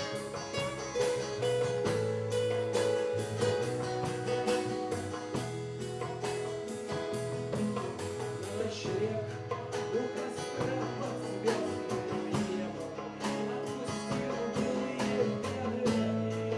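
Live band music: sustained chords under a quick, steady pulse of plucked or struck notes, in an art-rock style.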